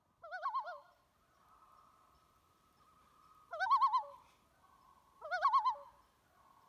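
Bird calls: three short calls with a fast wavering pitch, one near the start and two more a few seconds later. A faint steady tone carries on between them.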